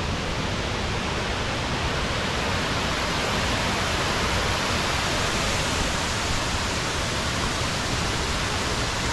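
Waterfall cascades rushing: a steady, even wash of falling water with no breaks.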